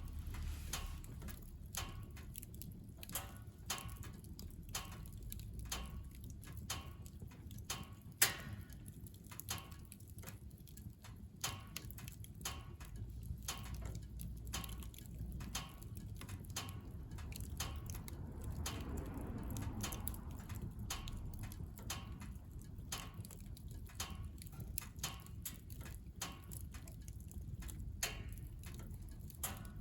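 Firewood burning in a wood stove: irregular crackling and popping over a low steady rumble, with one sharper pop about eight seconds in.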